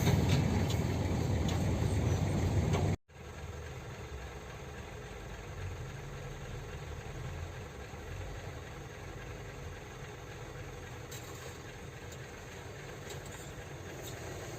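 Heavy diesel dump truck engine running with a steady low rumble. About three seconds in, the sound cuts out for an instant and carries on quieter.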